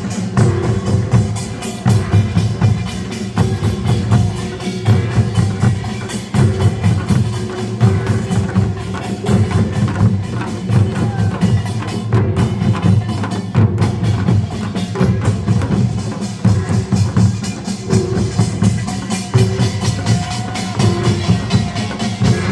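Korean nongak (pungmul) percussion ensemble in the Gyeongsang-do style playing loudly without pause: barrel drums and hourglass drums beaten in a fast, dense rhythm, with sharp strikes from small gongs on top.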